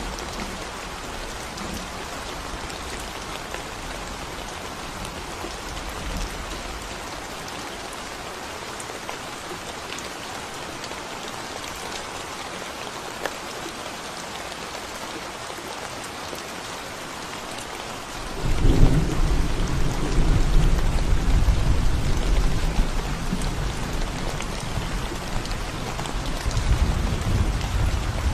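Steady rain falling on a concrete road, an even hiss of drops. About eighteen seconds in, a deep low rumble sets in suddenly and continues under the rain, louder than it.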